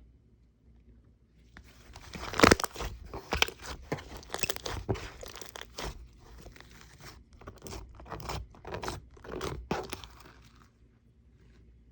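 Cement slime crackling and crunching as it is pressed and worked by hand: a dense run of sharp crackles that starts about a second and a half in, is loudest about a second later, and stops shortly before the end.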